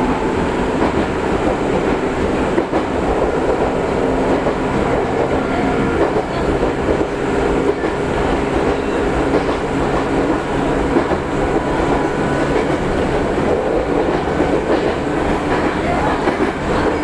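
Electric commuter train running at speed, heard from inside the passenger car: a steady running noise from wheels on rails with a faint hum and scattered light clicks from the track.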